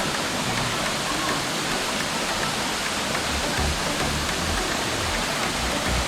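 Steady rush of flowing water, even and continuous, with background music underneath.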